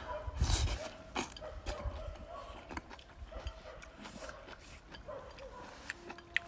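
Close-up eating sounds of a peeled rock sugar orange: a juicy bite and slurp about half a second in, then quieter wet chewing and lip smacks.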